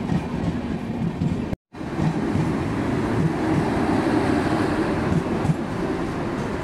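Udaipur City–Jaipur Intercity Express, an LHB-coached train, rolling out past the platform with a steady rumble of wheels on rail, its last coach, the luggage-and-generator car, going by. A brief total drop-out about one and a half seconds in.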